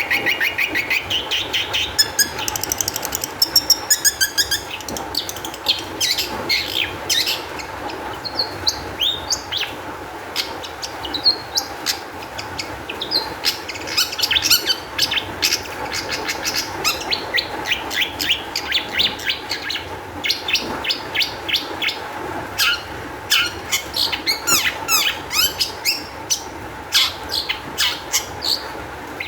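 Long-tailed shrike (cendet) singing a fast, varied song of short chattering notes, quick rising and falling whistles and harsh rattles, in excited, high-energy bursts.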